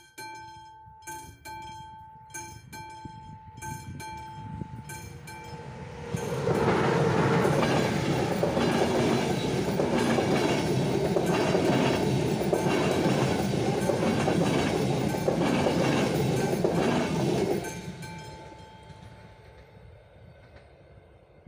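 AŽD 71 level-crossing warning bell ringing in repeated strokes, then a train passes over the crossing, loud for about eleven seconds with wheels clattering on the rails, and fades away.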